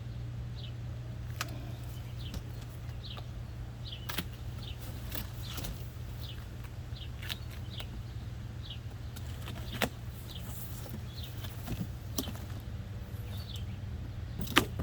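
Small birds chirping over and over, short falling chirps about once a second, over a steady low hum. Now and then a sharp click or knock sounds as a cardboard box is cut open and handled, loudest about ten seconds in and just before the end.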